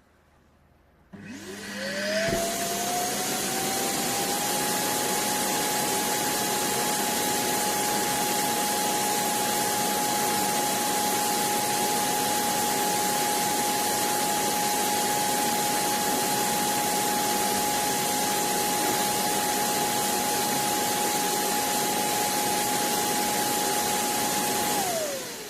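Laresar robot vacuum's suction fan motor starting up with a rising whine, running steadily with a high whine over a rush of air, then winding down with a falling pitch near the end.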